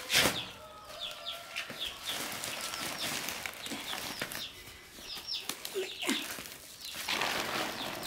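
Birds chirping in many quick, short, high calls, with a loud burst of rustling just after the start and another stretch of rustling about six seconds in.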